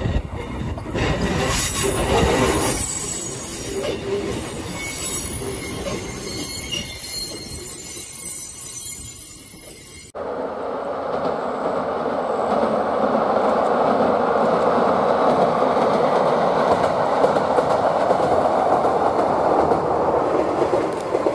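Kotoden retro electric train rolling slowly through curved track and points, its wheels clicking over the rail joints and then squealing in thin high tones against the curve. About ten seconds in the sound cuts abruptly to a steady, even noise.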